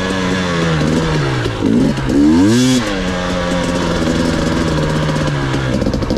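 Off-road vehicle engine running under way: its note sags, then revs up sharply about two seconds in, drops back and holds a steady pitch.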